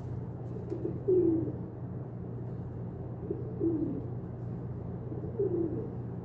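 Pigeon cooing: three low coos about two seconds apart, each dropping in pitch at the end, over a steady low hum.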